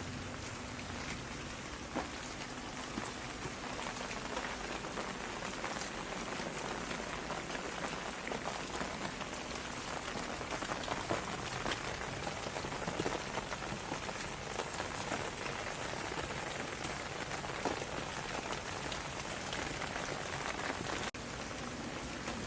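Steady rain, with many separate drop hits ticking through a continuous hiss.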